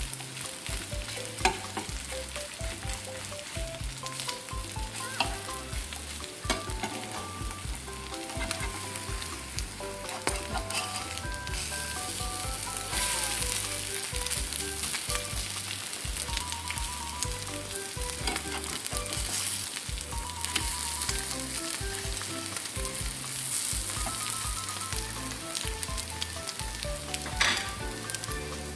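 Sausage-and-egg omelet sizzling as it fries in a nonstick pan. A spatula clicks and scrapes against the pan as the omelet is turned and broken up.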